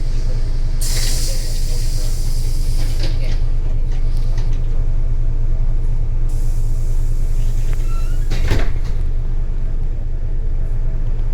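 Interior of a Scania L94UB compressed-natural-gas city bus on the move: its engine drones low and steady. Bursts of air hiss come about a second in and again past the middle, and a sharp clunk follows at about 8.5 s.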